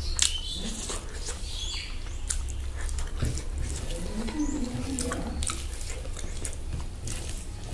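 Close-up eating sounds: chewing and lip-smacking on a mouthful of rice and pork curry, with many small wet mouth clicks. A steady low hum runs underneath.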